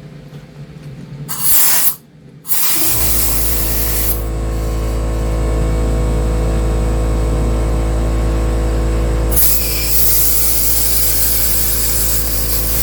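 Short bursts of compressed air hissing from a nozzle. About three seconds in, a loud, steady low machine hum starts and runs on under further hissing.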